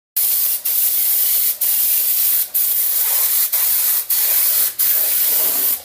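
Compressed-air spray gun hissing as it sprays liquid sound-deadening coating, with the trigger briefly released about once a second.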